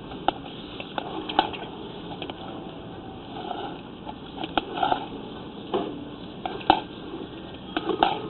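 Irregular clicks, knocks and short scraping rustles from sewer inspection camera equipment as it is worked through the line, heard through the inspection system's muffled, narrow-band audio.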